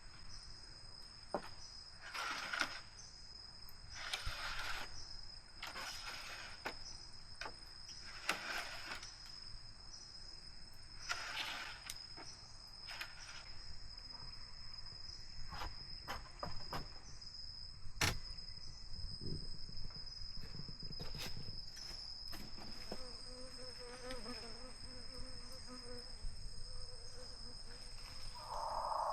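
Forest insects chirring in one steady high-pitched drone. Rustling or scraping noises come and go every couple of seconds over it, and there is one sharp click about halfway through.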